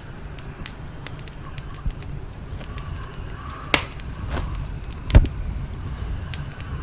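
Campfire crackling: a low steady rumble with scattered sharp pops, the loudest about five seconds in.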